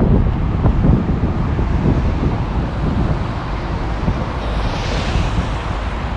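Wind buffeting the microphone in ragged gusts over the steady sound of road traffic. About four and a half seconds in, a passing vehicle's tyre hiss swells and fades on the rain-wet road.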